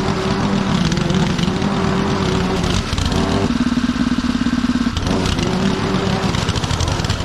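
Petrol lawn mower engine running steadily under load while cutting thick wet grass. Its note changes for about a second and a half near the middle, then settles back.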